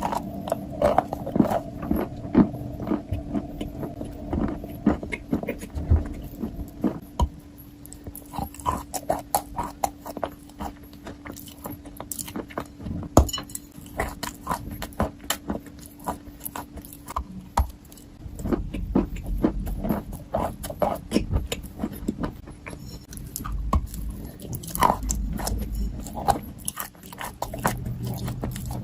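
Irregular crisp clicks and crunches, close up, like chewing, over a steady low hum.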